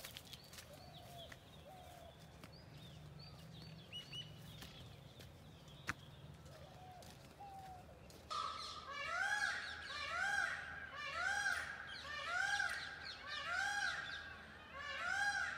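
Outdoor birdsong: faint scattered chirps at first, then about halfway through a bird starts a loud, repeated call that rises and falls in pitch, about once a second. A single sharp click is heard a little before that.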